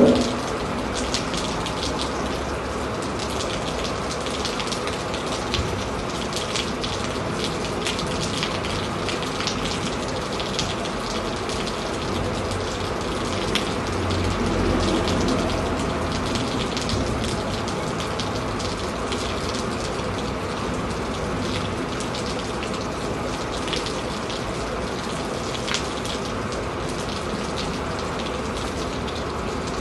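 Steady rain heard through an open window: a continuous hiss with many separate drop ticks. About halfway through, a low rumble swells for a few seconds and fades back into the rain.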